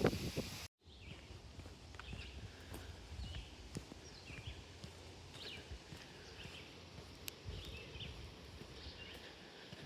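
Small birds giving short high chirps, about one a second, over low wind rumble on the microphone. A brief bump right at the start cuts off abruptly.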